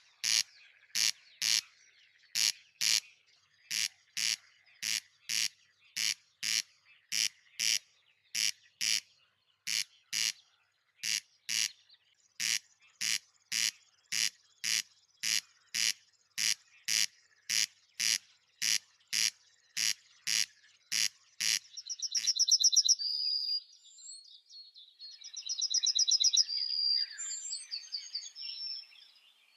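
Short sharp call notes repeated evenly, nearly two a second, for about twenty seconds, then stopping. After that, a songbird gives quick twittering, chattering phrases.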